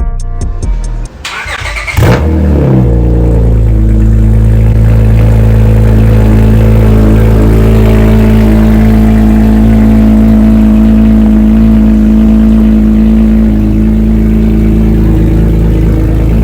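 Music plays briefly, then about two seconds in a car engine starts with a loud flare that settles within a second into a steady idle.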